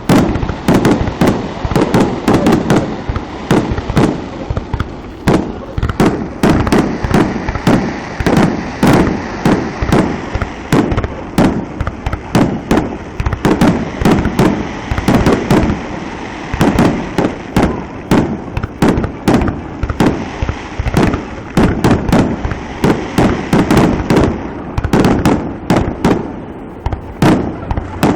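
Fireworks going off in quick succession, a rapid string of sharp bangs, several a second, with crackling and rumble between the bursts.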